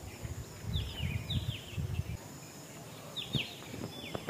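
Birds calling with short chirps that slide downward, in small clusters about a second in and again after three seconds, over a low rumble that stops about halfway through.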